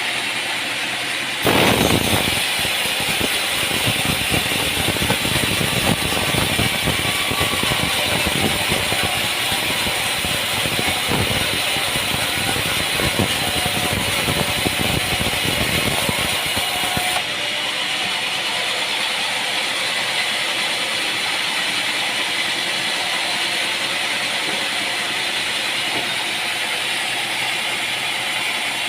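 Sawmill machinery running with a steady mechanical rattle. A louder stretch starts abruptly about a second and a half in and drops back suddenly about seventeen seconds in.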